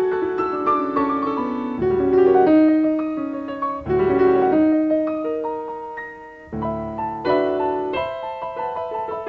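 Solo piano playing classical music, with deep chords struck about two, four and six and a half seconds in beneath a melody in the treble.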